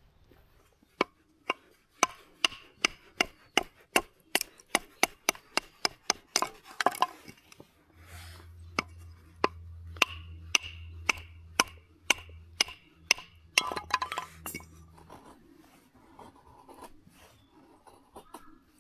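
Wood being struck over and over, as in chopping or splitting kindling: sharp knocks about two or three a second, stopping near the end, with a low hum under them for several seconds in the middle.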